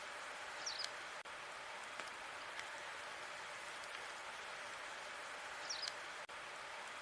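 Logs burning in a fireplace: a steady hiss with scattered sharp crackles, and a small cluster of pops just under a second in and again about five seconds later.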